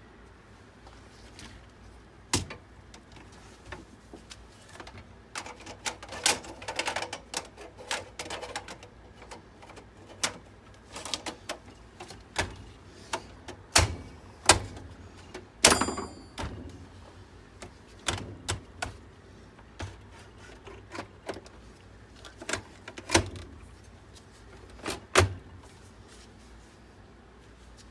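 Irregular clicks, taps and knocks of desktop PC parts being handled and worked on, with a short scraping squeak about halfway through.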